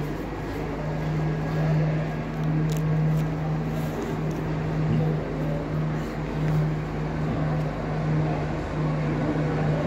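Class 170 Turbostar diesel multiple unit's engine running with a steady low drone as the train pulls away.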